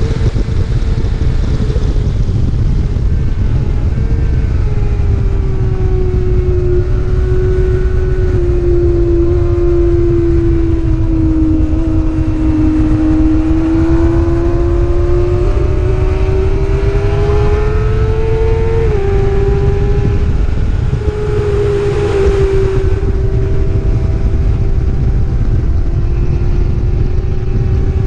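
A racing superbike's engine running hard under heavy wind rush on the microphone. Its note sinks slowly through the middle, climbs back, drops with a sudden step about two-thirds of the way in, then holds steady.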